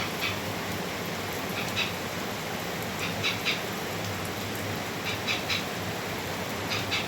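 Short high chirps from a small animal, in twos and threes every second or two, over a steady hiss.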